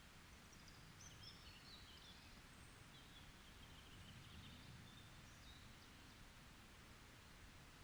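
Faint songbird chirps and twittering, high-pitched and scattered, mostly in the first half and again around five seconds in, over a quiet low rumble of forest ambience.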